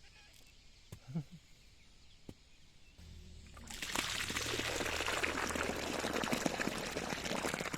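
Water running or pouring, starting loud and steady a little before halfway and going on to the end, over a low hum that begins just before it.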